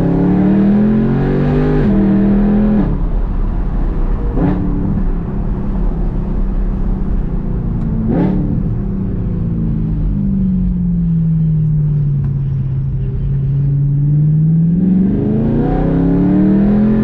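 BMW E92 M3's V8 through a loud exhaust while driving: it revs up and drops pitch on a gear change about two seconds in, gives two short sharp rev blips, then the engine speed sags slowly and climbs again under throttle near the end.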